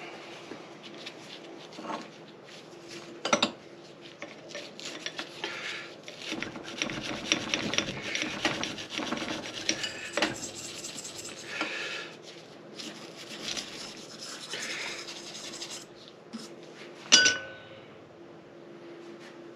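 Hand scrubbing and scraping on metal engine parts: a run of quick rubbing strokes, busiest in the middle. There are two sharp metal clanks, one about three seconds in and a louder ringing one near the end.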